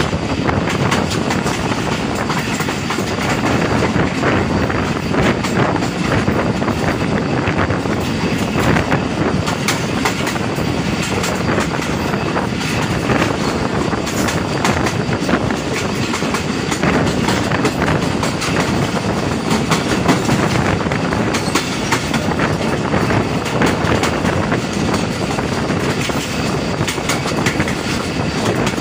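Pakistan Express passenger coaches running at speed: a steady loud rumble of wheels on the track, with a continual clatter of clicks as the wheels cross rail joints, heard from the coach's open side.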